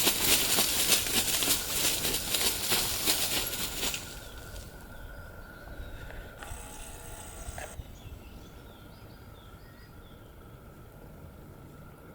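Birds: a loud rustling flutter for about four seconds, like wings flapping, then faint short bird chirps.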